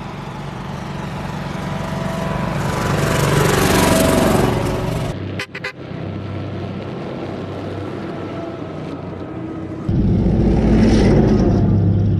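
Engines of 'Blue Bird' amphibious search-and-recovery vehicles on the move: one grows louder as it comes close and passes about four seconds in. The sound then cuts abruptly to other vehicles running, and from about ten seconds in a louder, deeper engine rumble.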